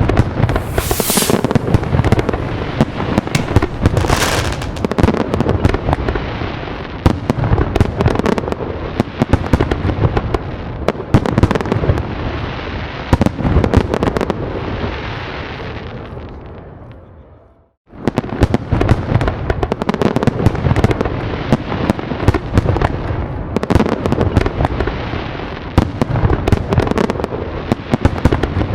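Dense fireworks barrage: many bangs and crackles overlapping in quick succession. About two-thirds of the way through it fades and cuts off for a moment, then starts again at full strength.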